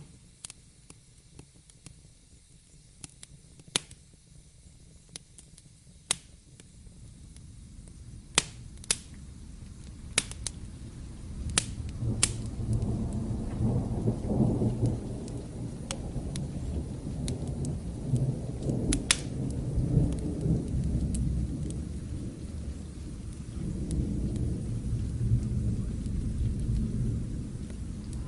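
Wood fire crackling with sharp, scattered pops over faint steady rain. A long, low thunder rumble builds from about eight seconds in and swells twice.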